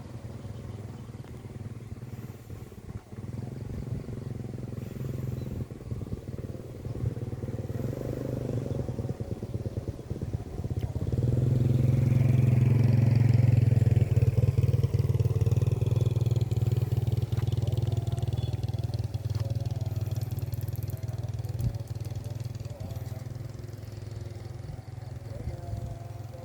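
Diesel locomotive hauling a train past: a steady low engine hum that grows louder, is loudest about halfway through, then slowly fades away, with rattling and clattering from the wheels and cars.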